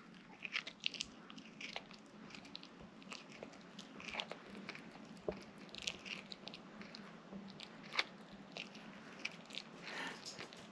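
A dog chewing and crunching food, in quick irregular crunches and bites.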